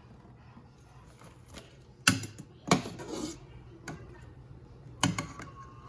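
Kitchen clatter of pots and utensils: three sharp knocks, about two seconds in, again just after, and near the end, over a steady low hum.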